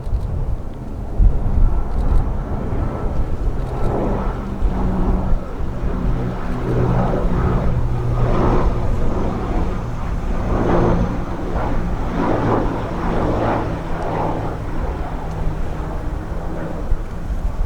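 Airliner engines running as a plane comes in to land, a steady low hum with a pulsing roar that builds about four seconds in and eases near the end. Strong gusty wind buffets the microphone throughout.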